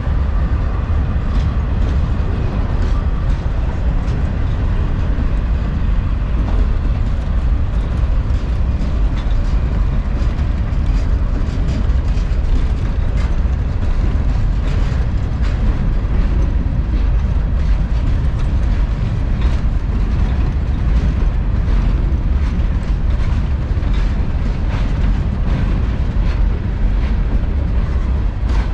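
Norfolk Southern manifest freight train rolling past: a steady heavy rumble of wheels on rail, with frequent short clicks of wheels over rail joints.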